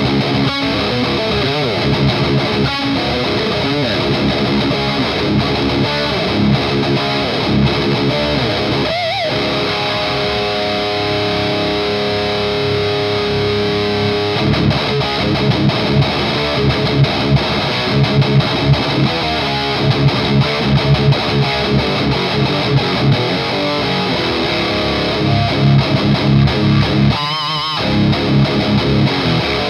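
Electric guitar played with high gain through a Skull Driver V2 Evolution overdrive pedal into an EVH 5150 Iconic amp: distorted riffing, with a chord left ringing steadily for a few seconds about ten seconds in, then choppy, chugging rhythm playing.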